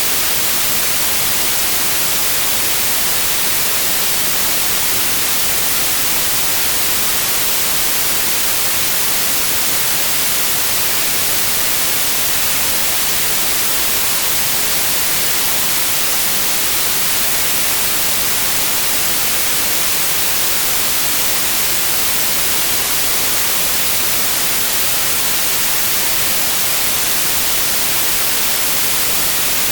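Steady white noise, an even hiss with no change or events.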